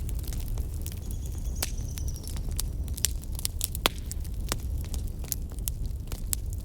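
Fire crackling: a steady low rumble of flames with frequent sharp pops and snaps, two louder pops about three and four seconds in.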